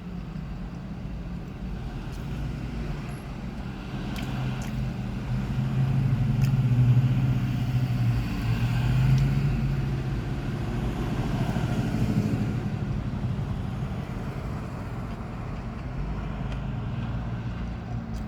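Low, steady vehicle engine rumble that swells louder for a few seconds in the middle.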